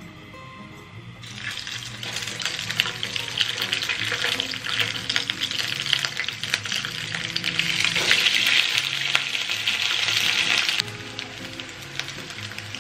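Slices of leftover ugali frying in hot oil. The sizzle starts about a second in as a slice is laid in the pan, and drops back to a quieter sizzle near the end.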